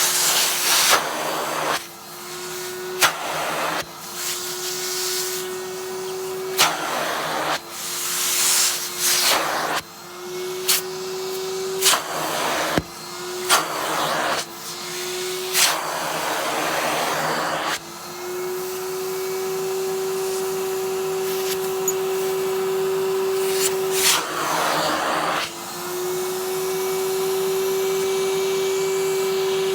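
Henry cylinder vacuum cleaner run over a padded down jacket. Its steady motor hum is broken every second or two by loud rushes of air as the nozzle works over the fabric and zips. After about eighteen seconds it runs steadily, with one more rush of air later on.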